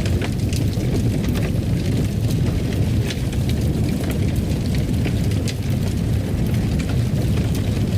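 Wood fire crackling, with irregular sharp pops over a steady low rumble of burning.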